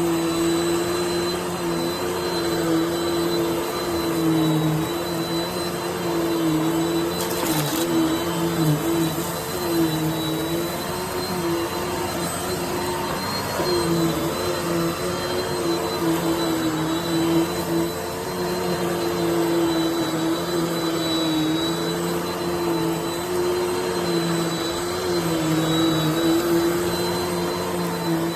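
Dirt Devil Multi-Surface+ upright bagless vacuum cleaner running steadily: a motor hum with a thin high whine over the rush of suction air, its pitch dipping briefly now and then.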